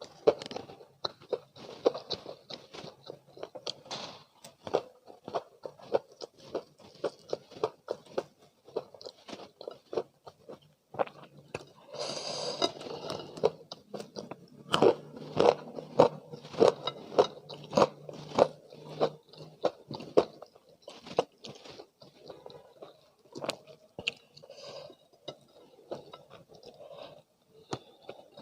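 Close-miked chewing and biting of crispy spicy fried chicken with rice: a steady run of wet mouth sounds and sharp crunches, thickest about halfway through.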